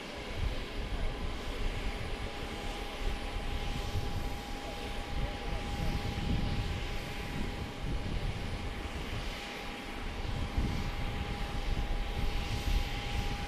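Jet airliner engine noise: a steady whine under a wide hiss, with irregular low gusts of wind buffeting the microphone.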